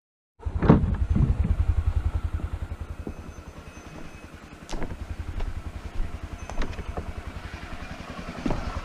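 Motorcycle engine running with a steady, fast low throb, cutting in abruptly about half a second in, with a few sharp knocks over it.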